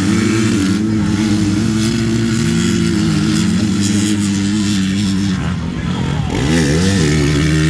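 Motocross motorcycle engines running hard with a steady pitch. About six seconds in, the pitch dips and rises as the throttle changes.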